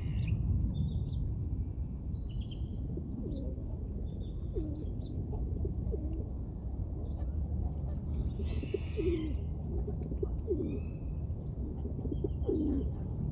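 Park birds calling: a run of short, low calls repeating from a few seconds in, with scattered higher chirps from small birds, over a steady low rumble.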